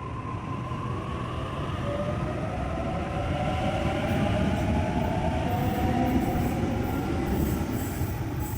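Electric suburban train gathering speed: a steady rumble of wheels on track, with a motor whine that rises slowly in pitch and then fades near the end.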